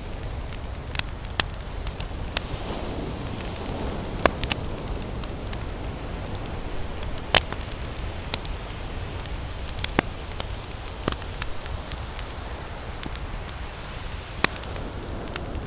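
Wood campfire crackling and popping at irregular intervals, with the sharpest pop about seven seconds in, over a steady low rumble.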